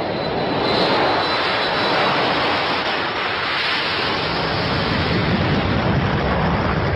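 Aircraft engine noise, a steady rushing sound like a jet at power, typical of a flight simulator's takeoff or cruise sound.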